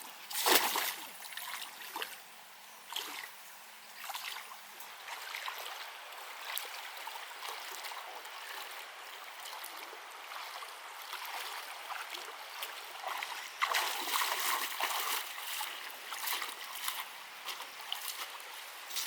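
Water splashing and trickling, with a loud splash about half a second in and a busier stretch of splashing around two thirds of the way through.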